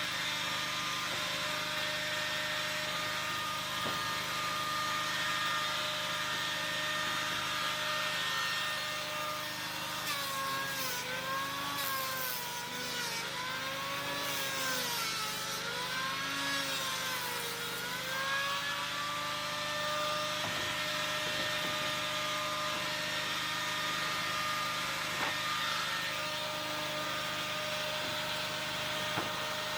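A motorised power tool running with a steady high whine. Several times in a row its pitch sags and recovers, as under repeated load.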